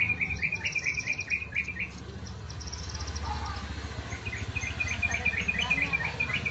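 Yellow-vented bulbul (trucukan) singing in two runs of quick chattering notes, the first stopping about two seconds in and the second starting near four seconds in. A low steady rumble runs underneath.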